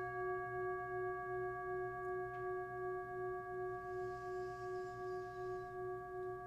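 A singing bowl ringing on one sustained note with steady overtones, its loudness wavering in a slow, even pulse.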